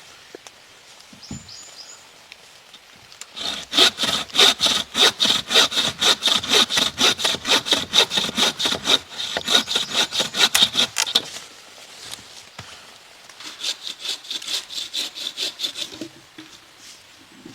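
Hand saw cutting through wood in quick, rhythmic back-and-forth strokes: a long bout of about eight seconds starting a few seconds in, then a shorter, quieter bout near the end.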